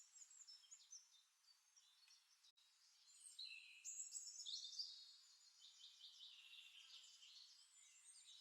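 Faint birdsong from a recorded nature-sound ambience: several small birds chirping and trilling in quick high notes, busiest about four seconds in.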